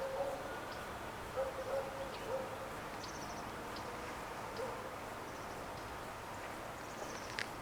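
Pigeons cooing: short, low, hooting notes at irregular intervals, with a few faint high bird chirps over a steady outdoor background hiss.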